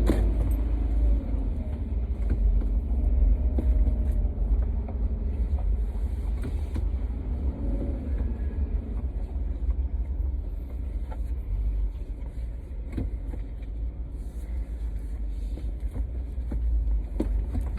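Car driving, heard from inside the cabin: a steady low rumble of engine and tyre noise with a fainter hiss above it and a few light knocks.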